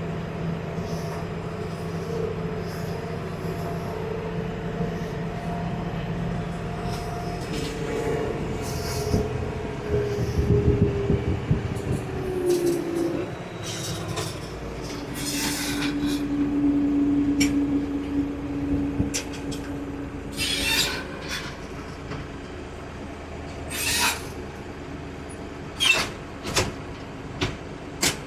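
Kioti DK65S tractor's diesel engine running as the tractor is driven in reverse up a rollback car carrier's deck. Its pitch drops a little before the middle, a steady whine holds for a few seconds after that, and a series of sharp metallic clanks and knocks comes in the last several seconds.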